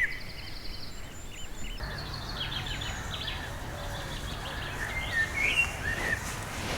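Several songbirds singing and calling: short whistled notes, chirps and a brief buzzy trill near the start, over a steady outdoor background noise that rises about two seconds in.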